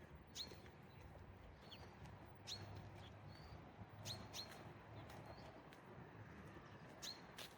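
Small bird chirping: short, sharp calls that drop quickly in pitch, about six of them at irregular intervals, over a faint low city rumble.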